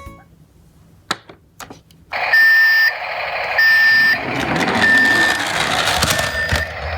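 A toy garbage truck's electronic sound gimmick plays a steady high beep about once a second over a noisy engine-like rumble, starting about two seconds in after a couple of clicks.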